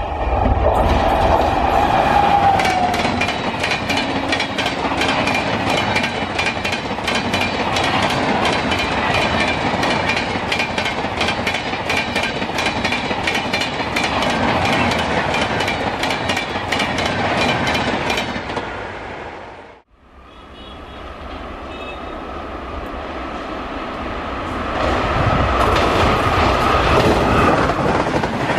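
Express passenger trains passing at speed close by, with a rapid clickety-clack of wheels over the rail joints over a steady rumble. About twenty seconds in, the sound drops away almost to nothing, then a second train's rumble and clatter build up again.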